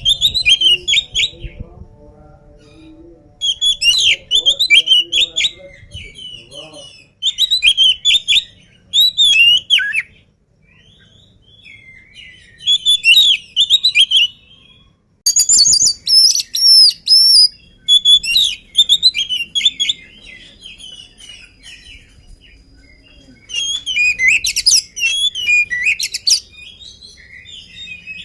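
Oriental magpie-robin (kacer) in full song: loud bursts of rapid, varied whistled phrases, each lasting a second or two, separated by short pauses.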